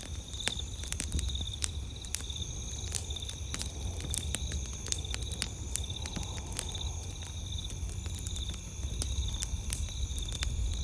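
Campfire crackling, with frequent irregular sharp pops and snaps over a low rumble, while night insects chirp in a steady pulsing trill.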